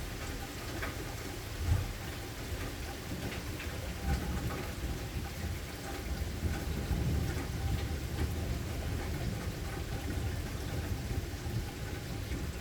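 Steady rain with scattered drips and taps, over a low rumble that swells around the middle. Two sharper thumps stand out in the first few seconds.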